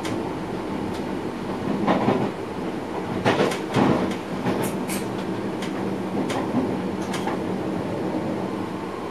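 Electric passenger train running, heard inside the driver's cab: a steady rumble and hum, with sharp clacks from the wheels over the track. The clacks come in louder clusters about two seconds and three and a half seconds in.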